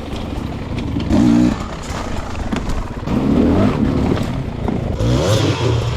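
Dirt bike engine revving up and down in short bursts, with a few brief knocks.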